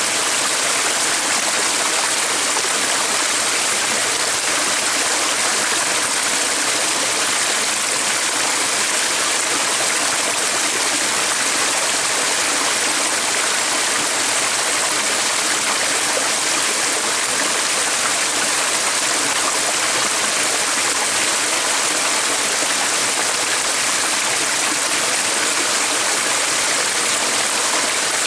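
Steady rushing of a stream's running water, even and unbroken with no change in level.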